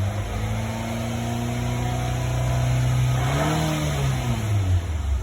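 Nissan Altima's 2.5-litre four-cylinder engine revved in neutral. Its pitch climbs slowly for about three seconds, peaks, then drops back toward idle. This is a throttle check of how the exhaust cam timing follows its solenoid, done for code P0016.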